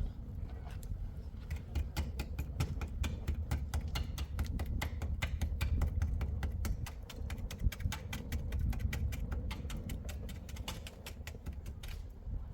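A rapid, irregular run of sharp clicks or taps, several a second, over a steady low rumble.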